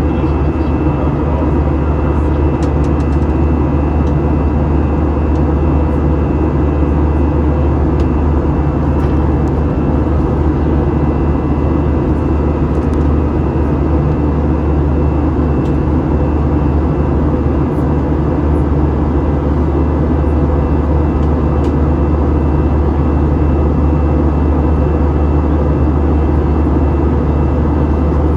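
Steady drone of an Airbus A321's jet engines and airflow heard inside the cabin, a constant low hum with a few thin, steady whining tones over it.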